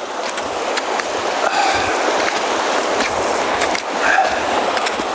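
Rushing creek water, growing louder over the first couple of seconds and then steady, with scattered clicks and crunches of footsteps on rocky ground.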